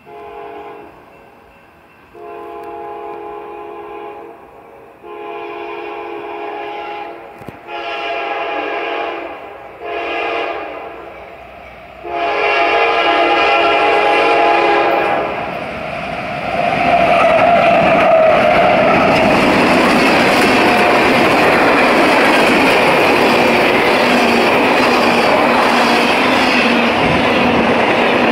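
Approaching freight train's locomotive horn sounding about six blasts for a grade crossing, each louder than the last, the final and longest starting about twelve seconds in. Then the train passes close, its engine and wheels making a loud, steady noise with some clickety-clack.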